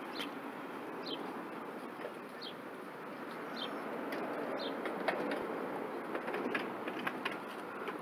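Outdoor ambience: a steady background rush with a small bird chirping repeatedly, short falling chirps about once a second. Faint clicks come through in the second half.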